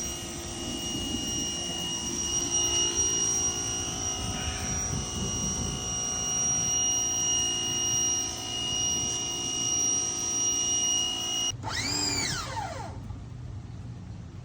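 Ford Raptor R's supercharged V8 running steadily with a high, steady whine over the engine note. Near the end the sound breaks off suddenly into a brief whine that rises and falls, and then it is much quieter.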